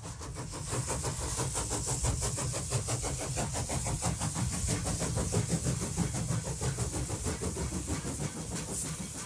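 Train sound effect: a fast, even rhythmic beat over a low rumble and a steady hiss.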